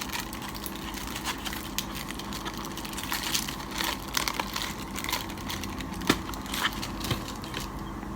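Plastic packaging of an SD card being handled and opened: irregular crinkling and small clicks, with one sharper click about six seconds in.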